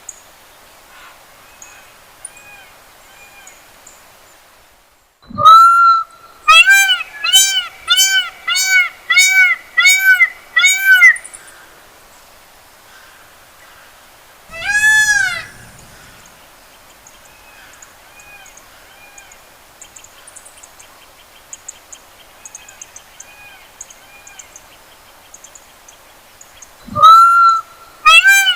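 Peacock calling loudly with its cat-like wail: one long call, then a quick run of about seven short, arched calls. A single call follows a few seconds later, and another loud call near the end starts a new run. Faint small-bird chirps can be heard between them.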